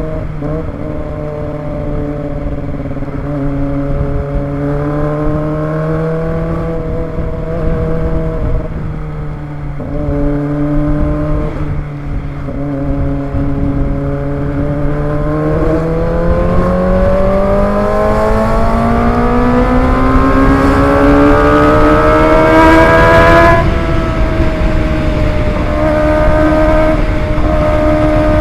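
Kawasaki ZX25R's 250 cc inline-four engine while riding: it holds a steady pitch for a while, then accelerates with a long rising pitch over several seconds, drops sharply at an upshift about two-thirds of the way through, and settles back to a steady pitch.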